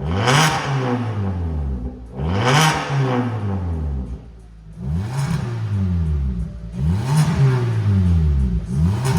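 Hyundai Avante (Elantra) CN7 N Line's 1.6-litre turbocharged four-cylinder blipped through a Maintech variable exhaust: about five quick revs, each climbing sharply and falling back toward idle.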